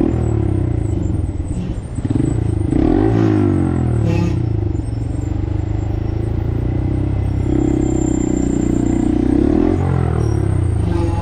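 Small single-cylinder Honda motorcycle engine running on the road, its pitch sweeping up and down twice, about three seconds in and again near the end, as the revs change.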